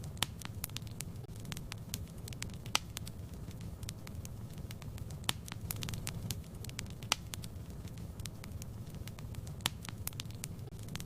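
Wood fire burning in a fireplace: a steady low rumble of flames with irregular crackles and pops, a few of them sharper and louder.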